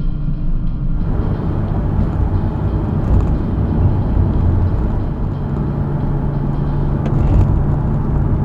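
Nissan 370Z Nismo's naturally aspirated 3.7-litre V6 running while cruising, heard together with road and tyre noise. About halfway through, the engine settles into a steady low note.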